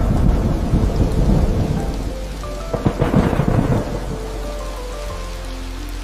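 Thunder rumbling over steady rain, in two loud rolls: one in the first two seconds and a second about three seconds in. Soft background music notes sound beneath it.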